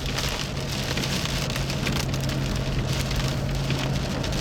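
Heavy rain hitting a car's roof and windshield, heard from inside the car, with a steady low hum underneath.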